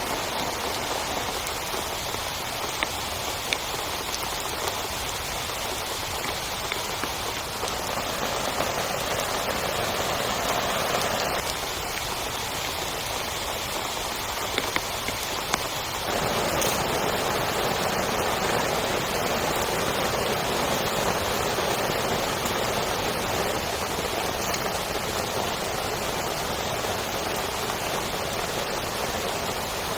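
Heavy rain falling steadily on a tent, with scattered sharp ticks of single drops; the sound of the rain changes abruptly about a third of the way in and again about halfway.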